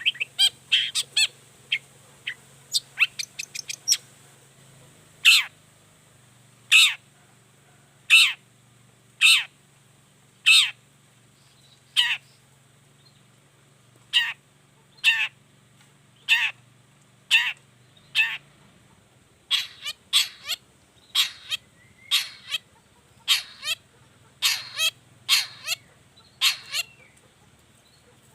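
Long-tailed shrike (cendet) giving loud, harsh, rasping calls: a quick run of short notes in the first few seconds, then single calls about every second or so, coming closer together in the second half.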